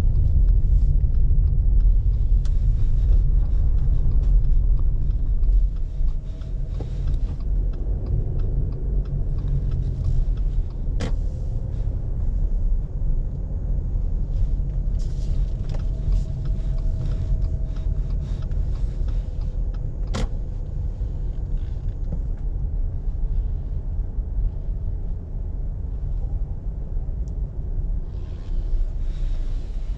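Car driving slowly, heard from inside: a steady low engine and road rumble that eases off about five or six seconds in as the car slows. Two sharp clicks stand out, one near the middle and one about two thirds through.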